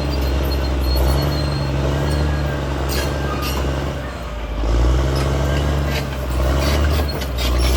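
Caterpillar D6R XL bulldozer's diesel engine running under load. Its note drops about four seconds in and rises again half a second later, with scattered sharp clanks over it.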